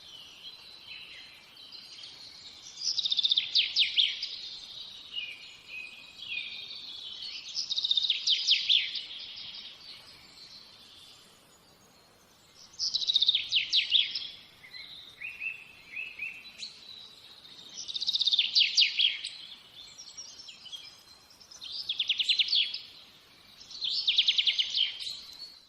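A songbird singing six loud trilled phrases, one every four or five seconds, with softer twittering in between.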